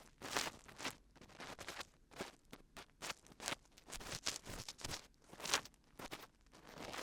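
Dried glue being peeled off the ears of a binaural microphone: an irregular string of crackling, sticky peeling sounds, some louder bursts among softer ones.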